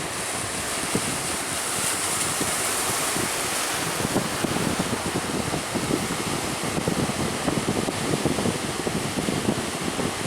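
Strong wind buffeting the microphone over rough open-sea waves: a continuous rush of wind and water with constant low buffets, the hiss swelling briefly about two seconds in.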